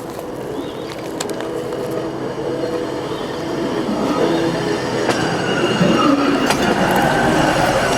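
Hi-rail truck approaching along the railway track, its rail wheels running on the steel rails, getting steadily louder. Sharp clicks and a thin high-pitched tone sound over the running noise as it nears.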